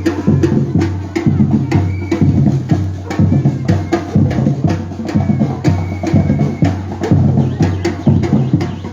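Batucada street percussion group playing a steady driving rhythm: regular sharp drum strikes over deep bass drum beats.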